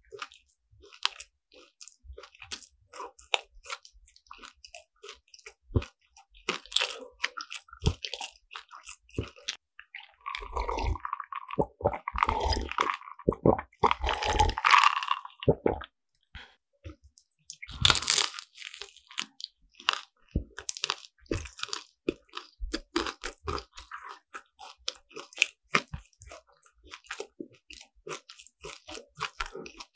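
Close-miked crunching and chewing of crisp croffle, the caramelised crust crackling with each bite. A denser, louder run of crunching comes about a third of the way in, and one sharp crunch a little past the middle.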